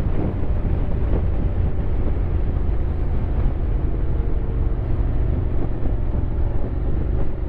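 Honda X-ADV 750's parallel-twin engine running steadily under way, a continuous low drone.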